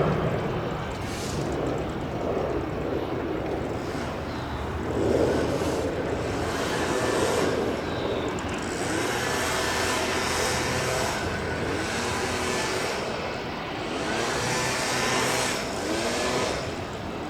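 Steady jet airliner engine noise.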